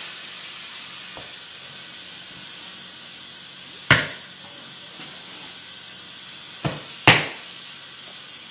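Compressed air hissing steadily as a 16-inch truck tire is inflated to seat its bead on the rim, the bead not yet sealed. Two sharp snaps stand out, about four and seven seconds in.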